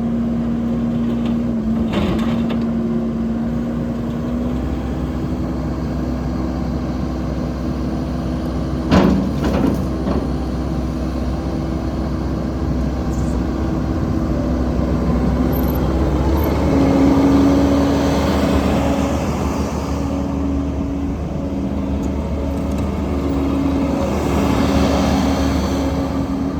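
Kubota SVL75-2 skid steer loader's diesel engine running, with a sharp knock about nine seconds in. Around sixteen seconds in the engine speed rises, then it varies up and down.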